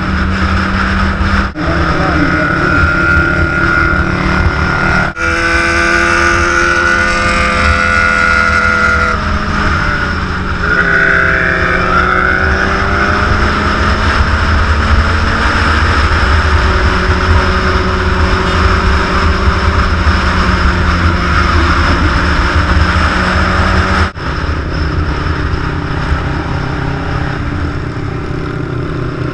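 Big motorcycle engines running on the road: a steady low rumble, broken off abruptly three times by cuts. Between about six and twelve seconds in, a pitched drone dips and rises again.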